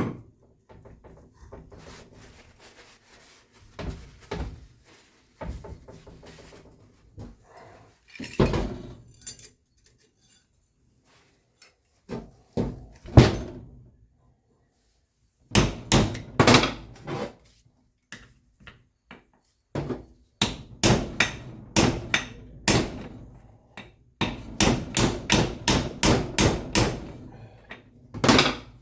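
Hammer blows during mechanical work: scattered knocks and clanks at first, then several runs of quick strikes, the last run a rapid series of about three to four blows a second.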